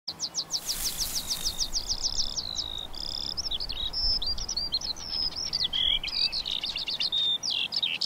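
Birdsong: a fast series of high, sweeping notes for about the first two and a half seconds, then a varied run of high warbled phrases.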